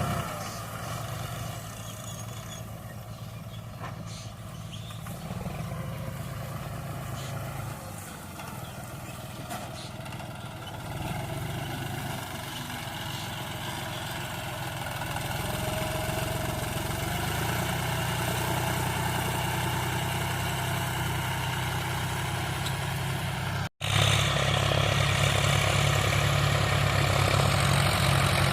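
Diesel tractor engine running steadily, its sound fading and swelling. After a brief cut near the end it is louder and closer.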